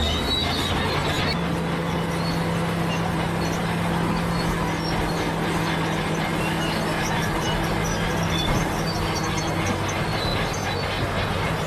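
Bulldozer at work: its diesel engine runs steadily under load, changing pitch slightly about a second in and again near the end, with high squeaking and clatter from the steel tracks.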